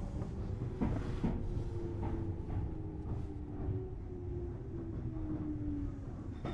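Tobu Series 6050 electric train's running gear heard from inside the car: steady rumble with a few wheel knocks over rail joints in the first two seconds and a whine falling slowly in pitch as the train slows.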